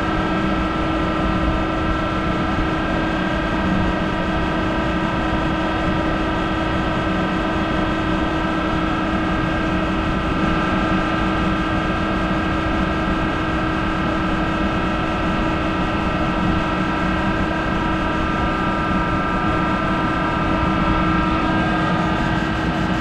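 Monarch 10EE toolroom lathe running steadily while turning a hardened tool holder: an even machine hum with a steady higher whine, unchanging throughout.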